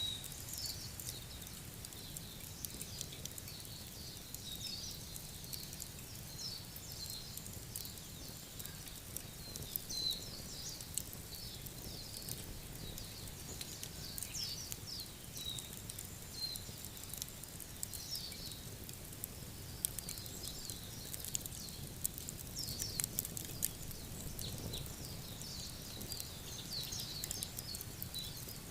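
Wood fire crackling with frequent sharp pops, over many short high chirps from birds and a steady low rumble.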